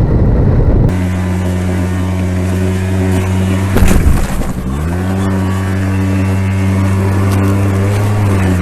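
Motorcycle engine, first heard as loud riding noise for about a second, then idling steadily. About four seconds in there is a sudden loud surge like a throttle blip, after which the idle settles slightly higher and stays steady.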